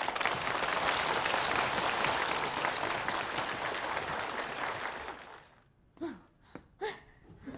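Studio audience applause, as on a sitcom's audience track, fading out after about five seconds. A few short voice sounds follow near the end.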